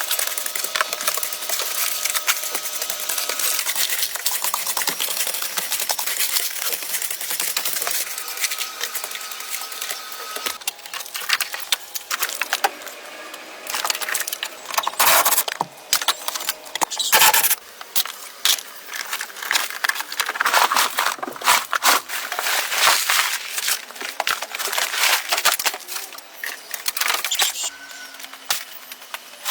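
Hands-on restoration work: a steady run of small clinks, scrapes and knocks, getting busier and louder about a third of the way in.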